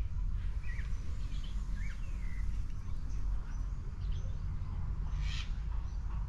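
Birds calling, with short chirps scattered throughout and one louder, harsher call about five seconds in, over a steady low rumble.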